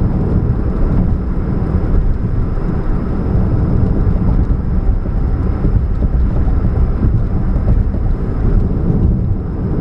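2013 Chevrolet Spark running with a steady low drone of engine, exhaust and road noise, the humming that the owner puts down to a catalytic converter leak.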